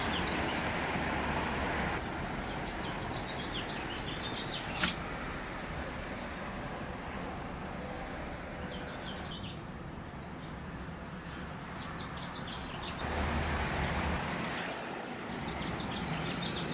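Small birds chirping in quick, repeated short notes over a steady background noise, with one sharp click about five seconds in.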